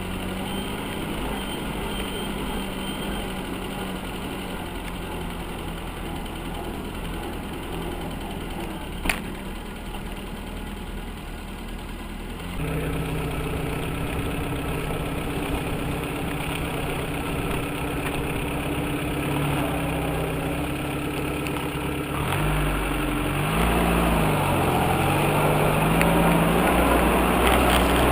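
UAZ off-road vehicle's engine running at low revs, stepping up louder about twelve seconds in, then revving up and down briefly near the end. A single sharp knock about nine seconds in.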